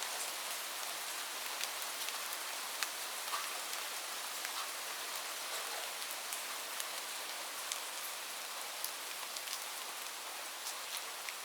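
Light rain falling steadily: an even hiss with many separate drops ticking close by.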